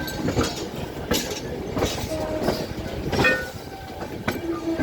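Train running over the rails, wheels clattering over rail joints with a sharp knock about every two-thirds of a second over a steady rumble.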